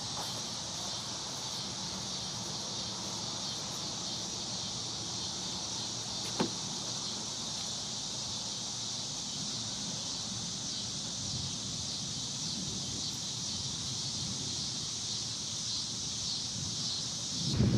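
Steady, high-pitched chorus of late-summer insects such as crickets, with one short click about six seconds in. A loud low rumble sets in at the very end.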